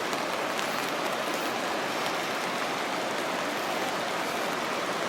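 Steady rushing water noise from rain and a loud creek, with a few faint ticks of drops.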